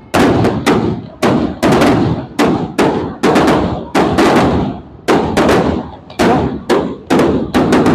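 Aerial fireworks exploding in rapid clusters of sharp bangs, several a second, each followed by a crackling, echoing rumble that dies away before the next salvo.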